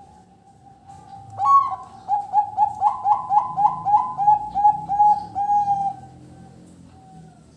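Zebra dove (perkutut) singing: one loud opening note about a second and a half in, then a quick, even run of about a dozen rolling coos, some three a second, that trails off about six seconds in.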